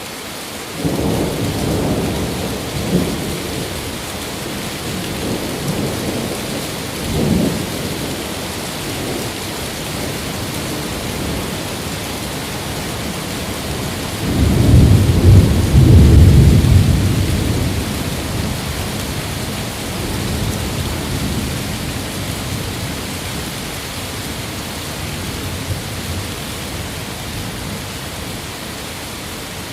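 Thunderstorm: steady heavy rain hiss with rolling thunder. Several short rumbles come early on, and a long, loud rumble builds up about halfway through and fades over a few seconds.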